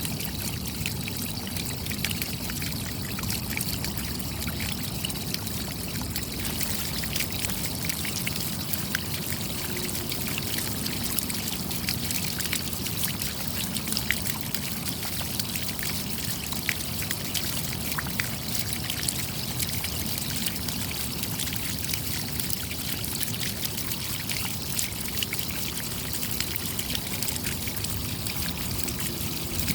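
Steady rainfall: a continuous low rush with many small, sharp drop ticks scattered through it, unchanging throughout.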